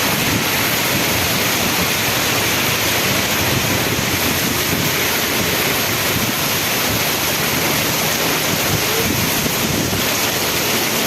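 Loud, steady rushing of water in a heavy monsoon downpour.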